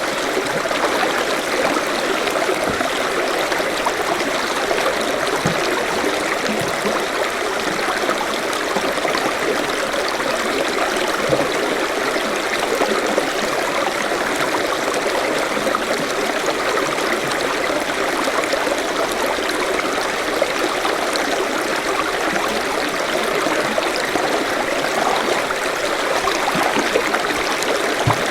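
A forest stream flowing steadily, its water running and trickling over stones.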